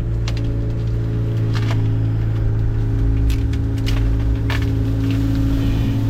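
A small work machine's engine running steadily at a constant pitch, with a few sharp cracks or clanks, about five of them, scattered through it.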